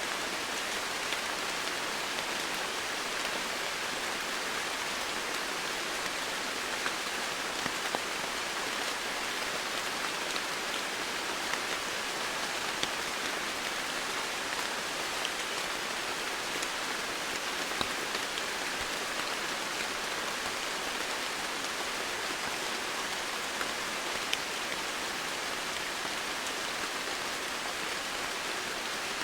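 Steady rain falling, an even hiss of rain with scattered sharper drop ticks throughout.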